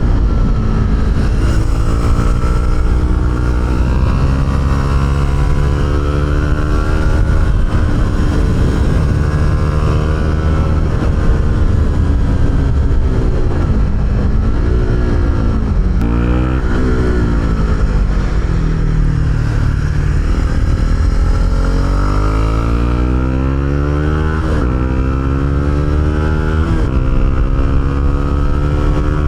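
Honda CB125R's single-cylinder four-stroke engine through an Arrow aftermarket exhaust, riding along. The revs climb and fall over and over, dropping and rising quickly a few times around the middle, then pulling up in long climbs near the end.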